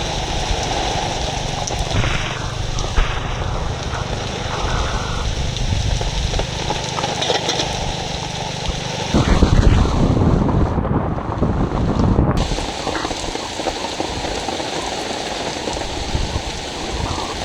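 Heavy rain falling steadily, with a louder low rumble about nine seconds in that lasts around three seconds.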